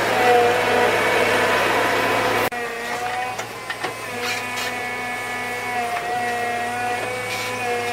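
A small motor running steadily with a constant pitch; its level drops suddenly about two and a half seconds in, and it runs on more quietly.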